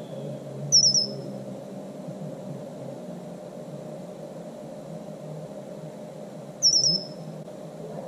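A small songbird calls twice, about six seconds apart, each time a quick burst of three or four high, falling chirps, over a steady low background noise.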